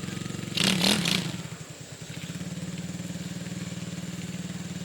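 Single-cylinder 125cc pit bike engine running steadily at low revs, with a short noisy burst about half a second in.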